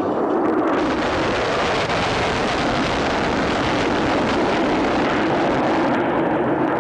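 Jet aircraft flying past, a loud, steady rushing jet noise that grows brighter about a second in and dulls near the end as it passes.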